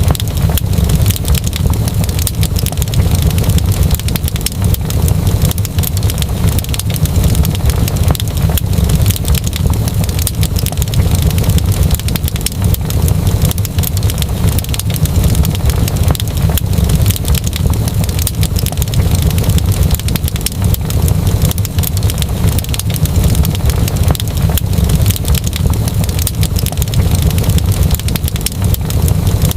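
Wood fire burning in a fireplace with a steady low roar and dense, continuous crackling.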